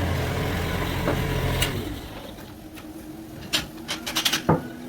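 A sawmill machine's steady low hum dies away about two seconds in, followed by a handful of sharp knocks and clicks.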